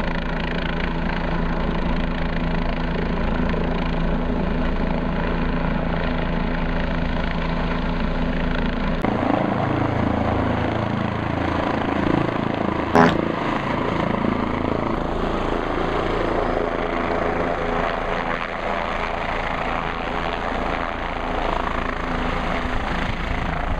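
Helicopter hovering, its rotor and engine giving a steady pitched drone. About nine seconds in the sound turns rougher and broader, and a single short loud crack stands out some four seconds after that.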